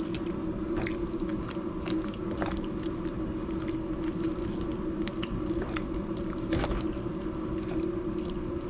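Spoon stirring seasonings into soup in a pot, with irregular scrapes and light taps against the pot over a steady low hum.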